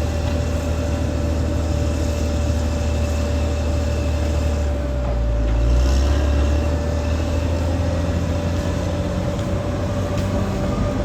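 Caterpillar D6R XL bulldozer's diesel engine running steadily with a constant whine over it, the engine note swelling louder for a moment about five to six seconds in as it takes load.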